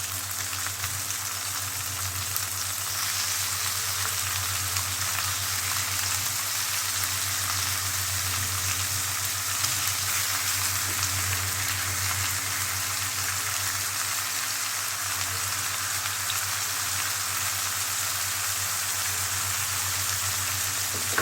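Seafood (fish fillet, crab and crab sticks) frying in hot oil in a pan with sliced peppers and onion: a steady sizzle.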